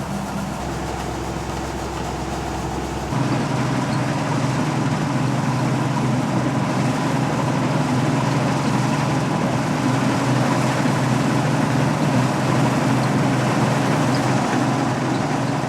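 A Claas Dominator 68 combine harvester running under load while cutting wheat, its six-cylinder diesel engine giving a steady drone over the noise of its machinery. About three seconds in, the sound steps up suddenly and becomes louder and fuller, then holds steady.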